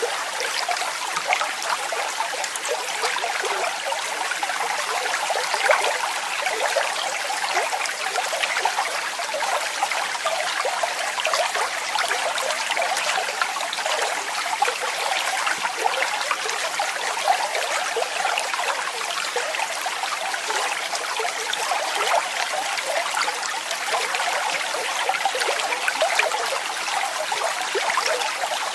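Waterfall: water falling and splashing steadily, a dense hiss of many small splashes and trickles with little deep rumble.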